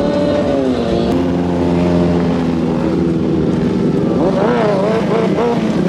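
Stunt motorcycle engines revving, the pitch rising and falling over a steady low drone, with more wavering revs about four seconds in.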